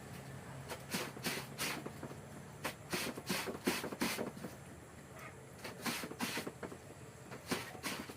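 Clothes being washed by hand: about a dozen irregular scrubbing and swishing strokes of wet fabric, in bunches with a short pause midway.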